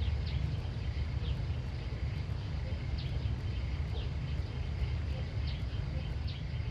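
Outdoor countryside ambience: a steady low rumble under short, high, downward-falling chirps that repeat about once a second.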